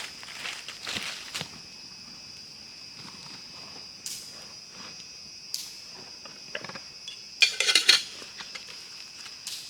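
Steady high-pitched chirring of forest insects, with scattered light clicks and rustles and a louder clatter of knocks about three-quarters of the way through.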